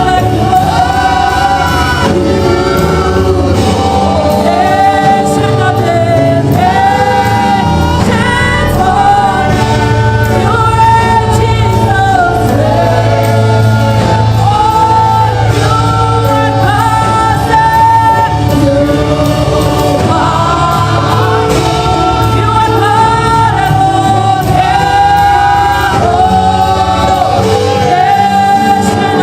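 Gospel music: a choir singing over a steady bass accompaniment.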